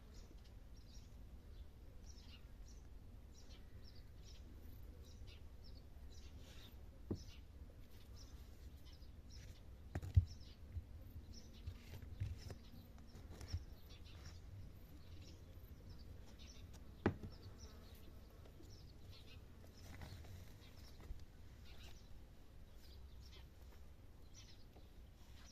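Faint outdoor ambience: many short high chirps scattered throughout, with a few sharp clicks or knocks, the loudest about ten seconds in and another about seventeen seconds in.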